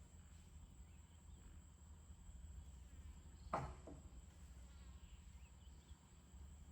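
Near silence: a faint low hum, broken by a quick double knock about halfway through.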